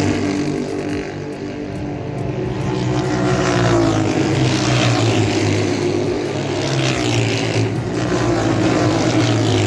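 A group of Royal Enfield race motorcycles revving, several engines at different pitches at once, their notes rising and falling.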